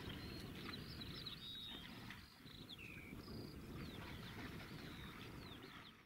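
Birds calling: many short whistles and chirps, some sliding down in pitch, over a low steady rumble like wind. Everything fades out at the very end.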